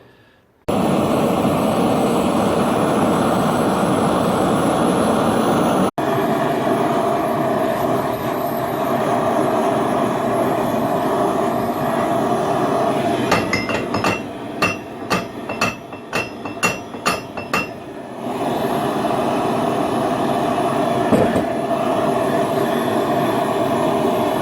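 A gas burner hissing steadily as steel is heated. About halfway through come a dozen or so hammer blows on the hot steel, roughly two a second, each with a ringing clink, and then the burner's hiss carries on.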